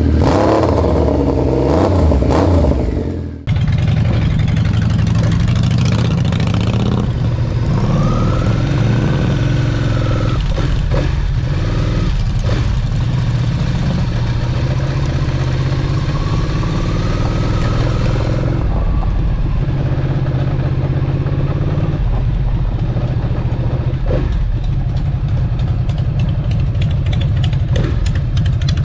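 Motorcycle engine running on a ride, a steady low note. About three seconds in, a busier opening sound cuts off abruptly, and a faint whine rises and falls a couple of times.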